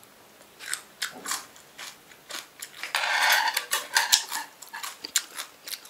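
Cutlery clinking and scraping against dishes during a meal: a string of short sharp clicks, with a longer scrape about three seconds in.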